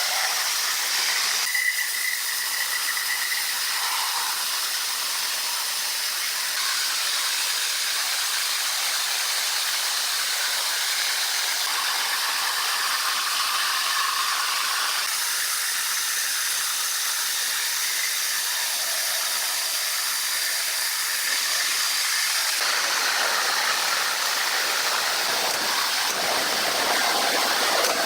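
Sawmill machinery running, a steady hiss that shifts abruptly in tone several times.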